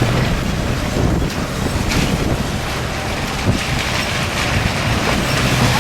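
Car driving, heard from inside the cabin: steady engine and tyre noise with a low rumble.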